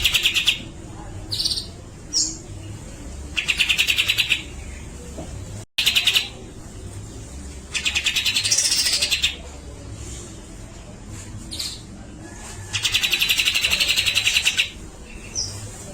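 Grey-cheeked bulbul (cucak jenggot) giving harsh, rapid rattling calls. There are four bursts of about a second or so each, with short single chirps between them.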